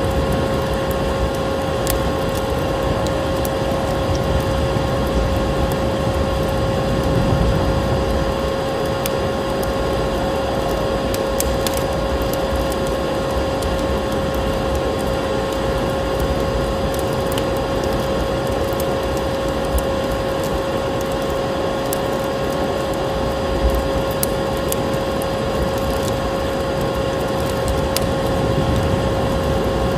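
Vacuum cleaner motor running steadily at one constant whining pitch over a rush of air, with sharp crackles of a wood fire scattered through it.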